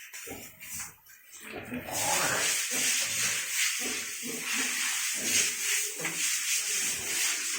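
Water spraying from a hose or sprayer jet with a loud, steady hiss that starts about two seconds in, used to wash down a pig pen.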